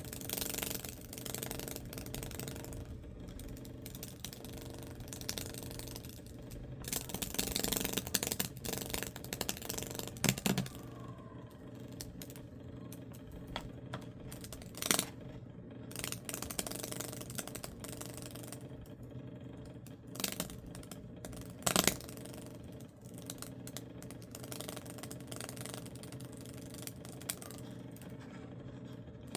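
High-voltage arc from a microwave-oven-transformer Lichtenberg rig crackling and sizzling as it burns fractal paths into wood, over the steady hum of the transformers, with a pulser switched in. The crackle comes and goes in irregular spells, with a few sharp loud snaps.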